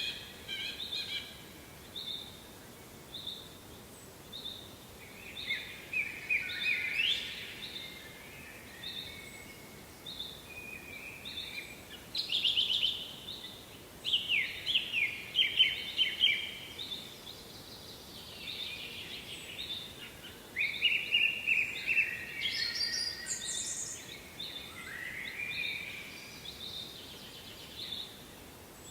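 Several songbirds singing: one bird repeats a short high note about once a second, while others sing louder trilling, sweeping phrases over it, above faint steady background noise.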